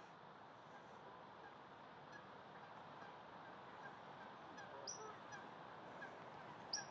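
Faint distant geese honking among other waterfowl calls over a low outdoor hiss, with two short, sharp high-pitched sounds, one about five seconds in and a louder one near the end.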